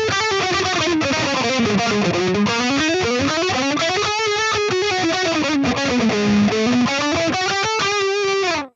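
Electric guitar through a Line 6 HX Stomp XL modeler on a lightly distorted lead tone, kept low on gain so it stays clear. It plays fast picked single-note runs that sweep down and back up in pitch twice, then cuts off suddenly near the end.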